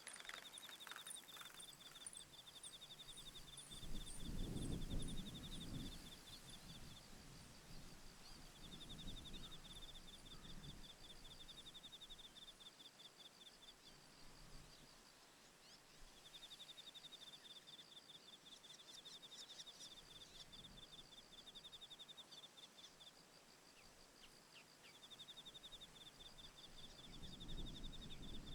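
An insect trilling in a high, finely pulsed buzz, in phrases of a few seconds each with short gaps. Gusts of wind rumble on the microphone about four seconds in and again near the end.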